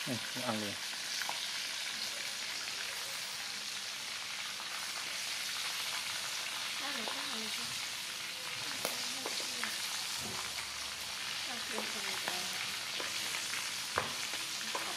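Steady sizzling hiss of food frying in hot oil, with a few small clicks.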